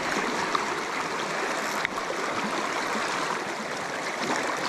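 River water rushing steadily around a wading angler.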